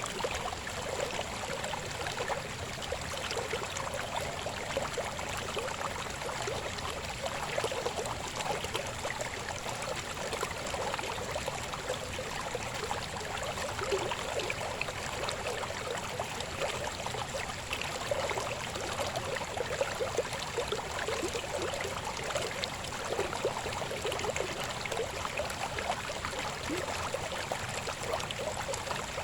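A babbling river flowing steadily: an even wash of water with many small gurgles throughout.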